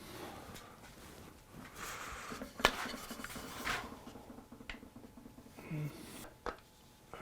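Hand work on white oak chair parts: rubbing and scraping, with a sharp knock about two and a half seconds in and a few lighter clicks later.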